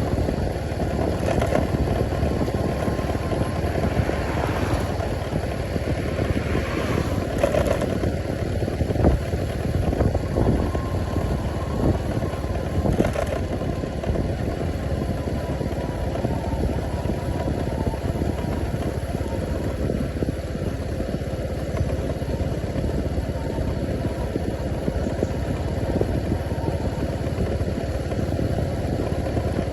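Steady rumbling of a vehicle engine on the move, with a few brief knocks.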